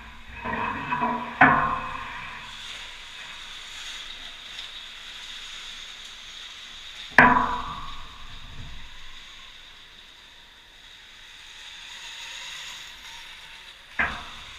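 Three sharp knocks, each ringing briefly, several seconds apart over a steady hiss, with some rattling near the start.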